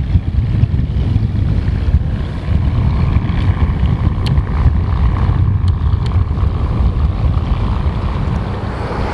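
Wind buffeting the microphone over the steady drone of the Avro Lancaster's four Rolls-Royce Merlin V12 engines, the engine note growing a little stronger a few seconds in.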